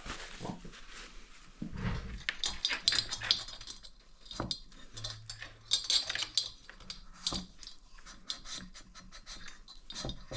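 Tools and small metal engine parts clinking and rattling in irregular clicks, with a few louder knocks, during hand assembly of an ATV engine's bottom end and timing chain.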